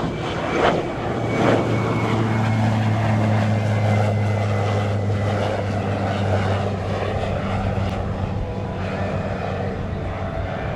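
MQ-9 Reaper's turboprop engine and pusher propeller running with a steady low drone. Two short swells of noise come in the first two seconds.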